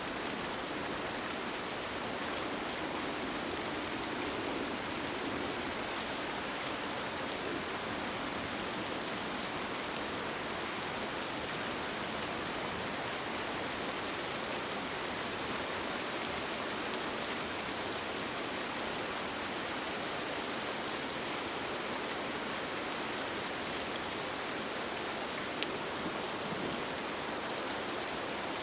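Steady rain pattering on a tent, with scattered individual drop taps and one sharper tap near the end.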